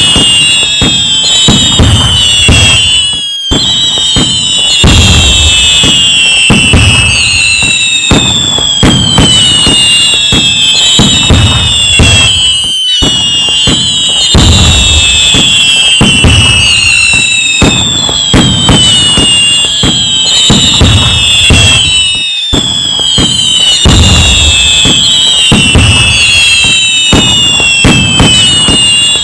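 A loud, dense barrage of fireworks: continuous bangs and crackling, with many overlapping high whistles sliding down in pitch. The sound breaks off for a split second about every nine or ten seconds.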